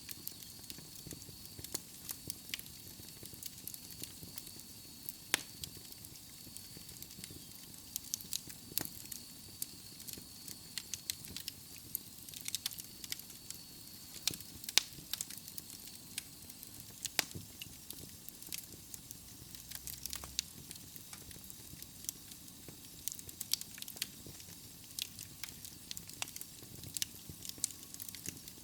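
Wood fire burning in a fireplace: logs crackling with irregular sharp pops and snaps over a low steady hiss. A faint high whistle, such as escaping gas from a burning log, sounds through the first half or so and then fades out.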